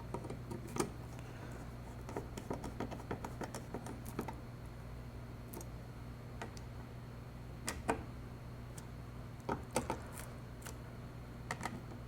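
Scattered light clicks and taps of small parts and tools being handled while the light fixture is put back together, some in quick clusters. A steady low hum runs underneath.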